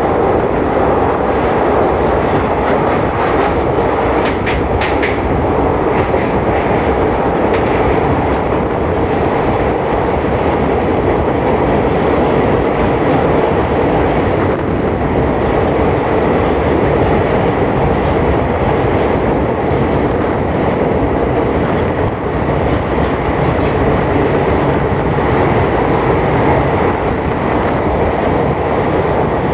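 Passenger train running at speed, a steady loud rumble of wheels on rail with brief high squeals from the wheels a few seconds in.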